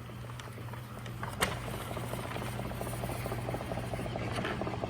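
Steinway Duo-Art reproducing piano's player mechanism left running after the roll ends: its electric suction pump gives a steady hum, joined from about a second in by a rapid fluttering chatter of many ticks a second, with one sharp click near the start of it.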